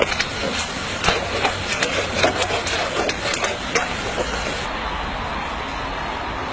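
Ash being cleared from under the ash pan of a miniature coal-fired steam locomotive: a quick, irregular run of sharp metallic clicks, knocks and scrapes for about four seconds, then stopping, over a steady hiss.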